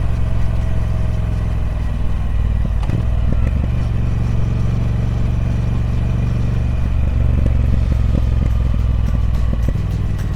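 Triumph Speed Twin 1200's 1200cc parallel-twin engine running through its stock exhaust, with a steady low note and a brief change in engine note about three seconds in.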